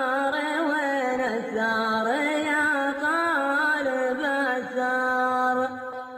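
A solo voice singing an Arabic poem in a slow, ornamented chant, holding long notes that bend and turn, with no instruments heard; it pauses briefly near the end.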